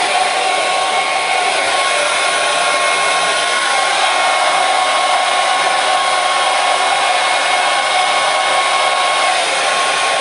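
Hair dryer running steadily: an even rush of air with a steady high whine from its motor, used as continuous sleep noise.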